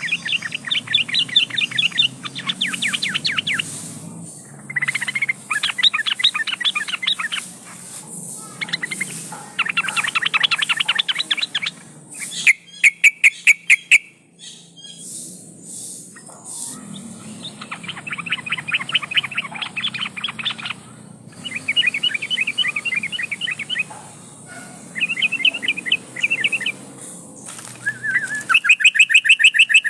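Yellow-vented bulbul (trucukan) calling in repeated bursts of fast chattering notes, each burst a second or two long and a few seconds apart. About halfway through, a string of sharp clicks sounds.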